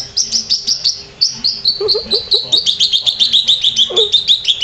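Small birds chirping in a fast, steady run of high notes, several a second, drifting slowly lower in pitch. A puppy gives a couple of short, low whines about two seconds in and again near the end.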